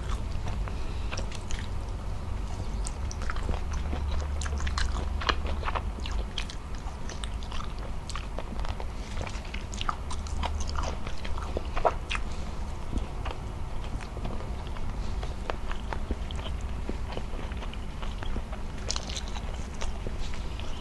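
Close-miked eating with the hands: wet chewing and lip-smacking of soft rice and braised beef trotter, heard as many small irregular clicks and smacks. Fingers squishing sticky rice on the plate add to the clicks, over a low steady hum.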